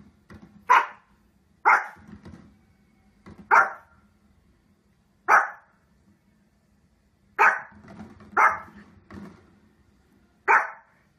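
Pomeranian barking seven times in short, sharp single barks, spaced irregularly about one to two seconds apart.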